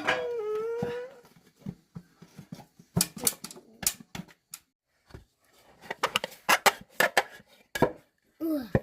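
Irregular sharp knocks and taps, like wood being worked by hand, clustered through the middle. A drawn-out pitched call opens it and a short falling call comes near the end.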